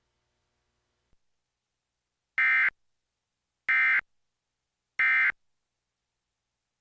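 Three short, identical bursts of Emergency Alert System SAME data tones, about 1.3 s apart: the digital end-of-message code that closes a NOAA Weather Radio warning broadcast.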